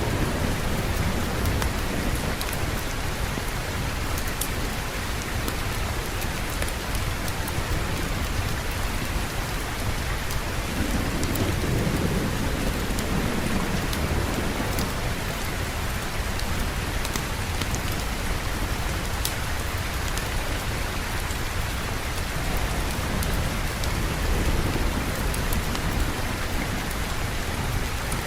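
Steady heavy rain with low rolling thunder that swells about eleven seconds in and fades a few seconds later; scattered sharp little ticks sit on top of the rain.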